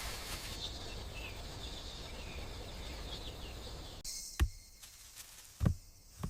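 Outdoor garden ambience with a low rumble and faint bird chirps. About four seconds in, the background drops away and three sharp knocks follow, each a little over a second apart.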